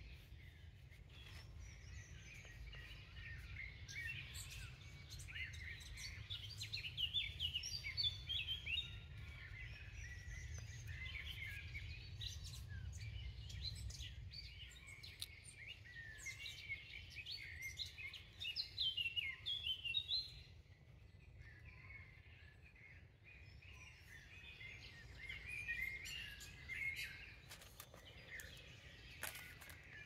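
Several songbirds singing and chirping in woodland, many quick overlapping calls, falling quiet for a few seconds just past the middle before starting again, over a steady low rumble of background noise.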